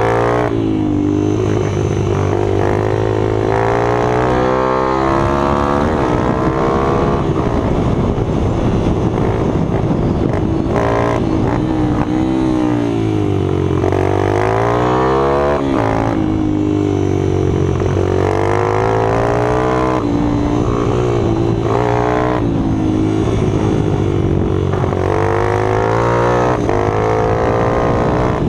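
Small minibike engines running hard, their pitch rising and falling again and again as they rev up and back off, with several engine notes overlapping.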